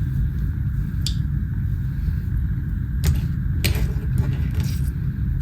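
Steady low rumble with a few short swishing strokes, about a second in and again around three seconds in.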